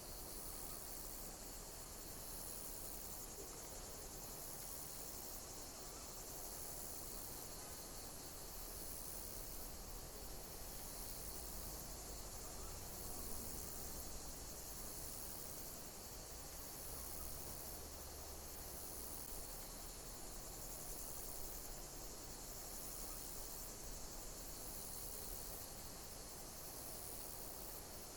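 Insects chirping: short high-pitched chirps repeating at an even pace, about one every second and a half, over a steady high hiss.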